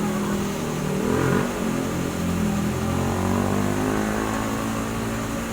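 Truck engine running steadily, its pitch wavering about a second in and then holding even.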